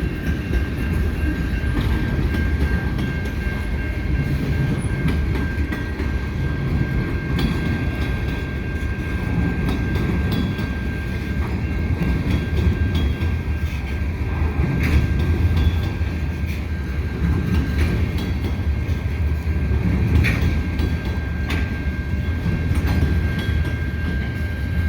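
A CN freight train's cars rolling past at a street crossing: a steady low rumble with scattered clicks of the wheels over the rail, and a thin steady high-pitched tone above it.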